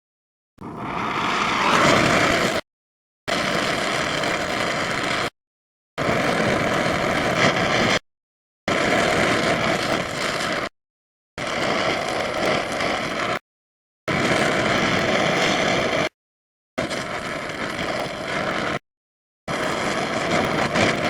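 A motorised power tool running in about eight bursts of roughly two seconds each, with silent breaks between them. The first burst winds up over about a second.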